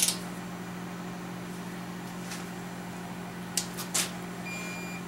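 A steady low hum of a fan or motor, with a sharp click at the start and two more clicks about three and a half and four seconds in, from parts or tools being handled at the bench.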